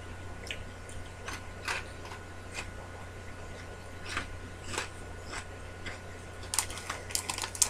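Crunchy cheese puffs (Cheetos Crunchy) being bitten and chewed close to the microphone: scattered sharp crunches that come thicker near the end, over a steady low hum.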